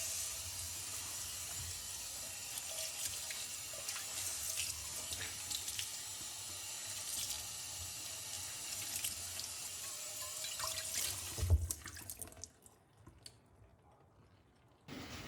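Kitchen tap running into a sink with small clinks, then shut off about twelve seconds in with a low knock.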